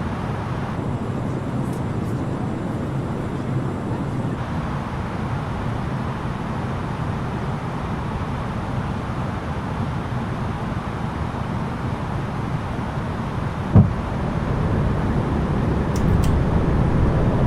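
Steady rumble of an Airbus A330-900neo's engines and airflow heard inside the cabin on approach. A single short thump comes about 14 seconds in, and the noise grows a little louder after it.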